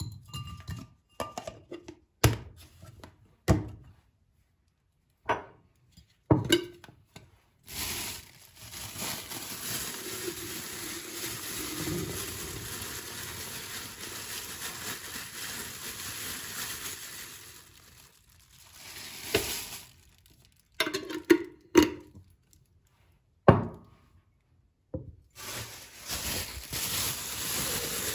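Kitchen items being handled and set down: a scatter of sharp clinks and knocks of glass and dishes. In the middle and again near the end there is a steady hiss.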